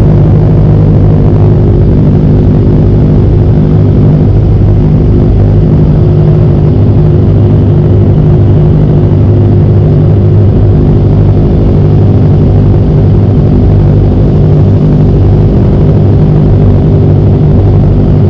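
Kawasaki ZX25R's 250 cc inline-four engine running at a steady speed, a loud, even drone that holds one pitch with no revving.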